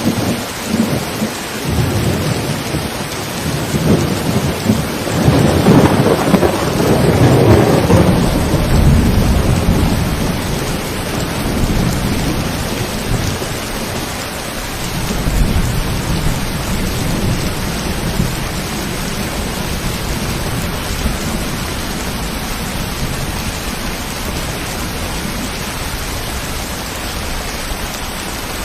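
Steady rain falling, with a long roll of thunder that builds over the first few seconds, is loudest about six to eight seconds in, and slowly dies away. A smaller rumble swells again about fifteen seconds in.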